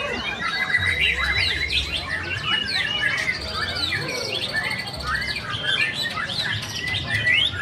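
White-rumped shama (murai batu) singing: a dense, unbroken run of quick whistles, chirps and sliding notes.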